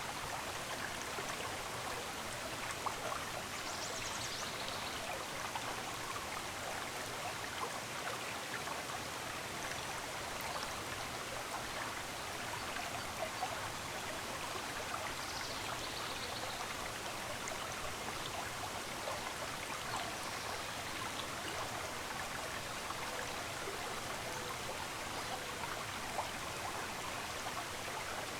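Running water of a stream, a steady babbling rush, with a few short, faint bird chirps high above it.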